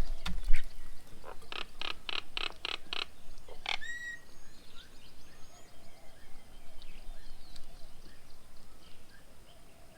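Birds at a feeding table calling: a run of about seven harsh, evenly spaced call notes, then a short call ending in a whistle, with fainter high whistles from other birds after. A low thump comes just after the start.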